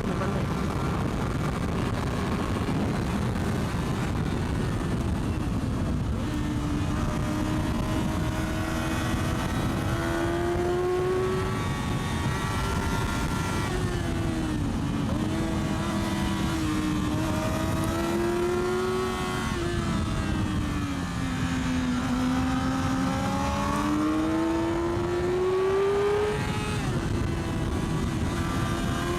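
600cc sport bike engine heard from the rider's helmet, its pitch climbing and falling again and again as the revs rise and the throttle is rolled off, under heavy wind rush on the helmet microphone.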